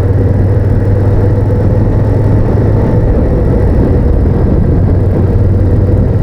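Honda VTR1000F's 90-degree V-twin engine running steadily while the motorcycle cruises, with no change in engine speed.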